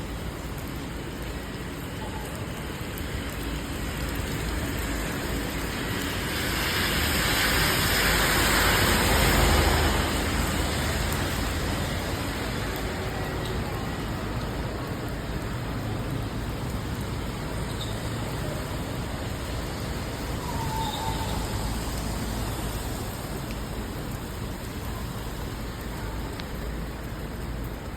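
Steady rain and city traffic on wet roads. A vehicle's tyre hiss on the wet road swells to a peak about nine seconds in and then falls away.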